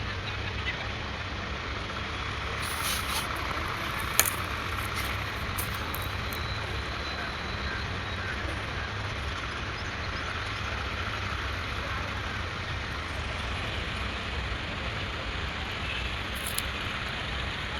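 Tractor diesel engine running steadily with a low rumble, with a few brief clicks and hisses over it, the sharpest about four seconds in.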